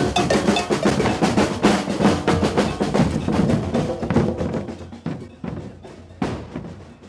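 Drums played in a fast, dense beat with snare and bass drum, fading away after about four seconds. A single sharp bang comes near the end.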